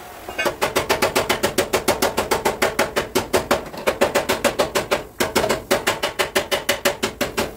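Rapid, even hammer taps on car body sheet metal, about eight blows a second, with a short pause about five seconds in.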